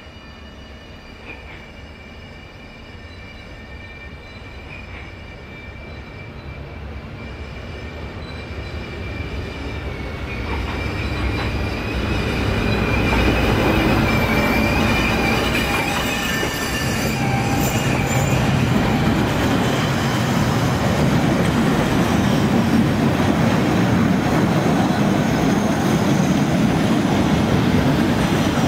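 A Rhaetian Railway Ge 4/4 I electric locomotive hauling old carriages approaches and passes close by. A high wheel squeal grows louder as it nears, and from about halfway through there is the steady loud rumble of the carriages' wheels rolling past on the rails.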